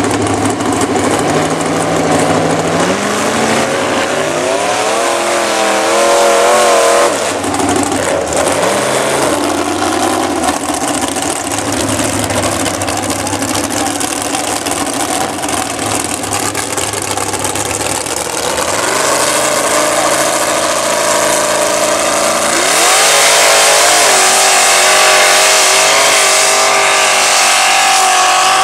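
Mud bog truck engine revving hard as the truck drives through the mud pit, surging up and down in pitch about five seconds in and again from about twenty seconds in, loudest near the end.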